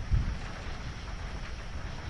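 Thunderstorm: a low rumble of thunder under a steady hiss of rain, swelling briefly just after the start.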